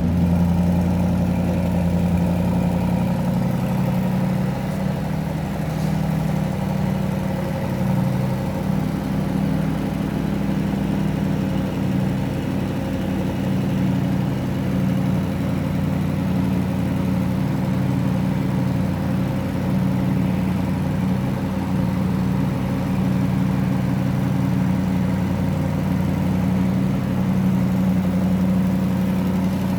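Audi RS Q8's 4.0-litre twin-turbo V8 idling steadily just after a cold start. The low band is a little stronger in the first few seconds, then the idle settles to an even hum.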